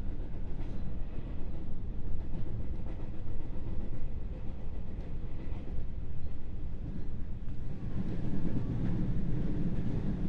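Interior running noise of a JR West 221 series electric train, heard inside its motor car: a steady low rumble of wheels on rail with a few faint clicks. The rumble grows louder about eight seconds in.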